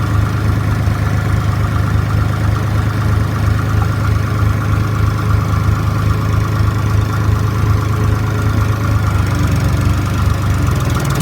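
Case IH 485 tractor's three-cylinder diesel engine running steadily, its tone shifting slightly near the end.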